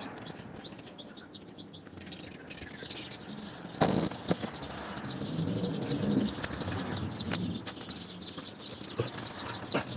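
Birds chirping and cooing, with two sharp knocks close together about four seconds in.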